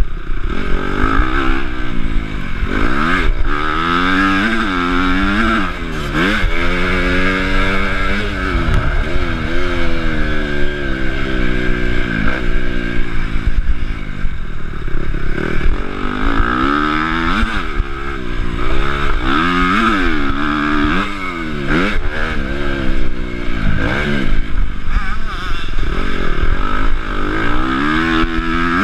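Honda CRF250 motocross bike's four-stroke single-cylinder engine, heard from the rider's chest, revving up and falling back over and over: short climbs in pitch one after another as it is run up through the gears, then dropping off when the throttle is shut.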